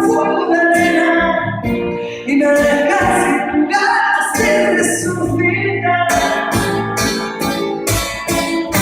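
Live acoustic pop song: guitar with singing.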